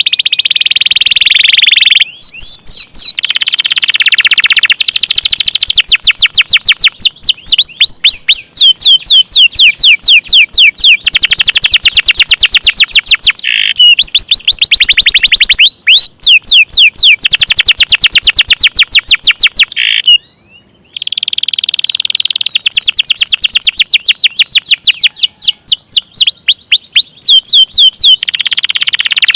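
Domestic canary singing loud, long rolls: fast trills of repeated high sweeping notes, several to the second, changing from one rolled phrase to the next, with a brief pause about two-thirds of the way through.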